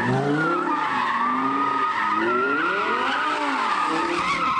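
Car doing a burnout: the tyres squeal without a break while the engine revs rise and fall several times.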